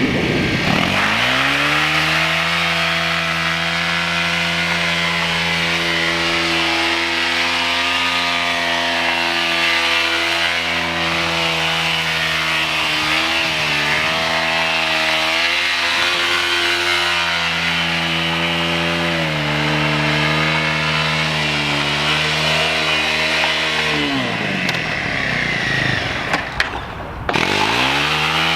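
Motorcycle engine held at high, nearly steady revs for over twenty seconds, with small rises and dips, as in a sustained stunt run. About 24 seconds in the revs drop away briefly, then climb again near the end.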